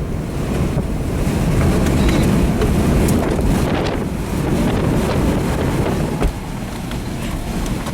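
Strong wind buffeting the microphone: a loud, low rushing noise that swells for a few seconds and eases again, with a few faint ticks.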